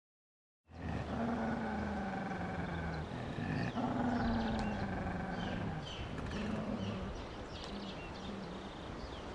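Dog growling: two long, low, drawn-out growls, then a run of shorter ones, starting about a second in.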